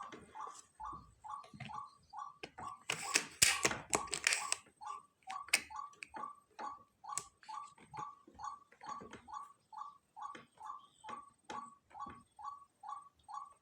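A bird calling in a fast, even series of short notes, about three a second, without pause. About three seconds in, a loud burst of noise covers it for about a second and a half.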